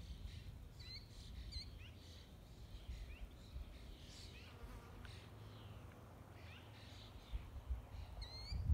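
Small birds chirping, with many short high notes and quick pitch-sweeping calls repeated throughout, over a low steady rumble.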